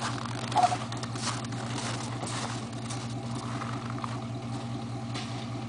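A vehicle engine idling steadily, a constant low hum, with one short high-pitched squeak about half a second in.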